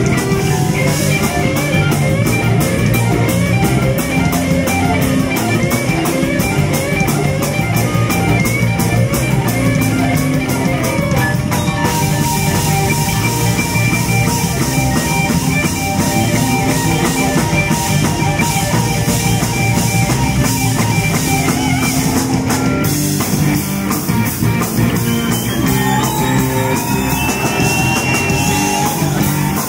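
Live rock band playing at full volume: an electric guitar plays a lead over a driving drum kit and bass. The guitar runs through fast repeating figures, then holds and bends notes near the end.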